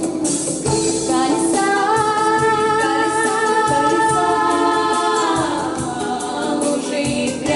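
Vocal quartet singing in close harmony, holding a sustained chord for several seconds before the voices slide down together. Strummed acoustic guitar accompanies them near the start and end.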